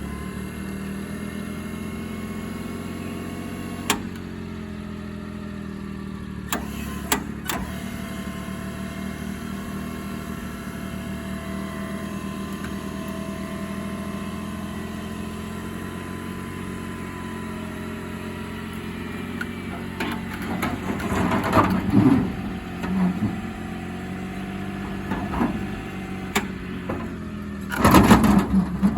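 Suzuki mini truck engine idling steadily, with a few sharp clicks and, in the second half, bursts of metal clanking and rattling as the bed-mounted crane handles a garden tiller.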